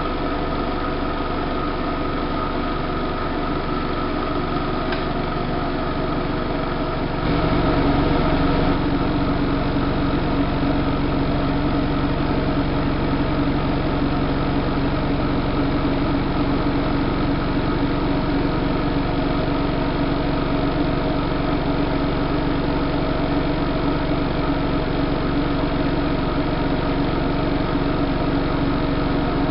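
Siemens Siwamat IQ-series washing machine in its spin, a steady motor hum with several fixed tones. About seven seconds in it steps up louder and deeper, then holds steady.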